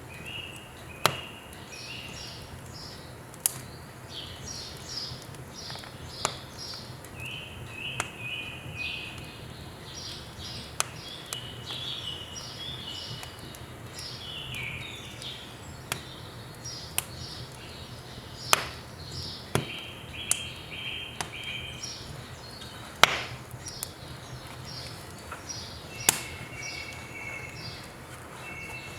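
Firewood burning with irregular sharp pops and crackles every second or few, while small birds sing repeated chirping phrases throughout.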